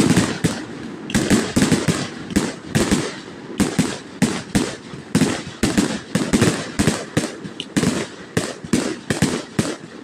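Fireworks going off in a dense, continuous barrage, sharp bangs and crackles following one another several times a second with no pause.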